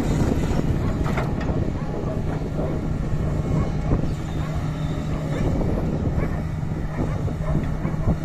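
Doosan DX225 excavator's diesel engine running steadily under working load while it shifts sand, with a few short knocks, about a second in, midway and at the end.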